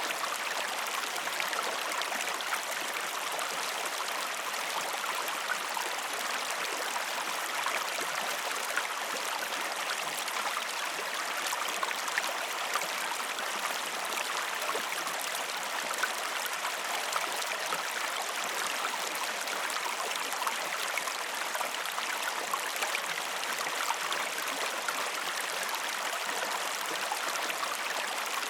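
River water flowing: a steady, even rush with many small splashes and trickles through it.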